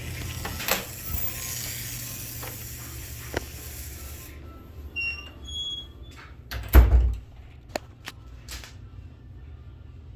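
A hiss for the first four seconds, then a string of sharp clicks and knocks with one heavy, deep thump about seven seconds in, over a steady low hum.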